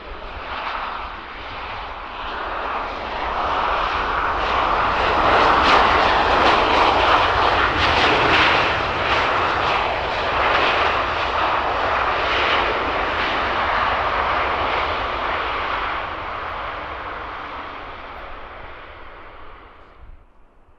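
Jet airliner's engines passing by on the runway, the noise building to a peak a few seconds in, then fading and cutting off abruptly near the end.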